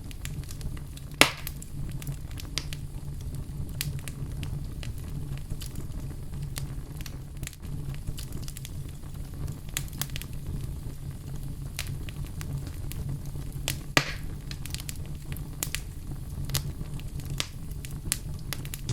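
Small wood campfire crackling, with scattered quick pops and two sharper snaps, one about a second in and one near fourteen seconds, over a low steady rumble.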